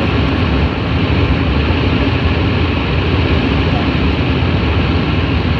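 Steady vehicle noise heard inside a car cabin: an even, loud rumble with no breaks.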